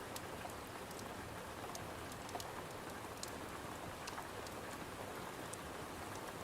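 Steady rain falling, with scattered sharp little ticks of drops over it.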